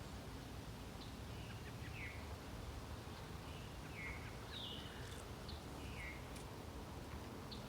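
A bird chirping faintly: short calls that fall from a high note to a lower one, repeated every second or two, over a low steady background rumble.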